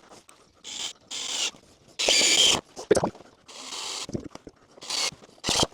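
A series of short, uneven scraping noises, the loudest about two seconds in.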